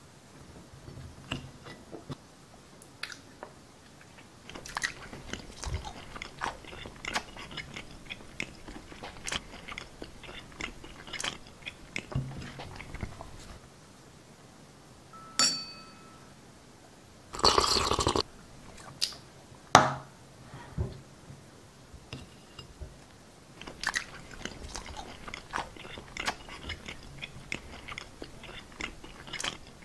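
Close, exaggerated chewing and crunching of a mouthful, with wet bites and clicks throughout. A louder crunchy burst lasting about a second comes a little past halfway, followed by a sharp snap.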